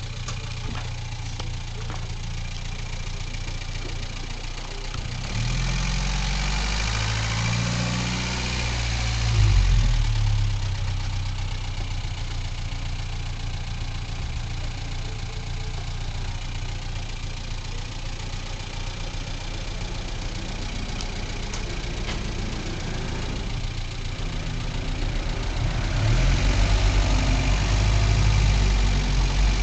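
A small Ford Fiesta hatchback's engine running at low revs while it is slowly reversed and manoeuvred into a parking space. It picks up twice with a rise in pitch, about five to ten seconds in and again near the end.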